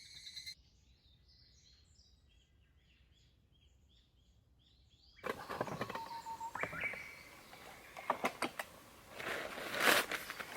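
Small birds chirping faintly in quiet morning air for about five seconds. Then louder close handling sounds take over abruptly: sharp clicks and clatter, a brief steady tone, and a hissing rush near the end.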